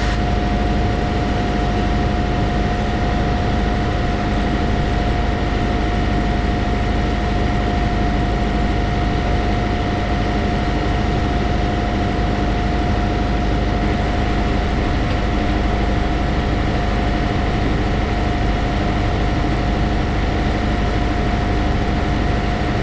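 Heavy diesel engine idling steadily, a low rumble with a constant high whine over it.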